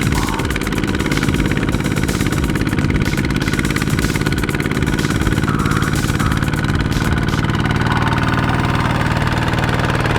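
Small two-wheel hand tractor's engine running steadily with a rapid, even pulsing beat.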